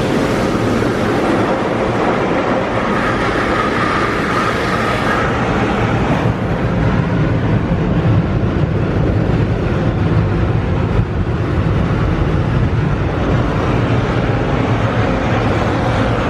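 Steady loud rushing of touch-free automatic car wash equipment heard from inside the car cabin. About six seconds in the hiss fades and a lower rumble takes over.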